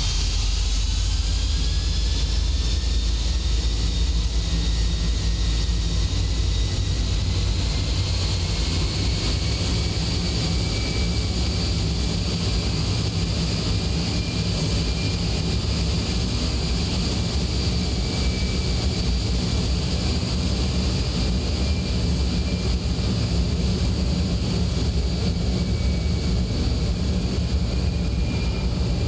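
Boeing 767-300ER freighter's twin jet engines at takeoff thrust: a steady deep rumble with a high whine on top. The whine falls in pitch over the first second or two, then holds steady.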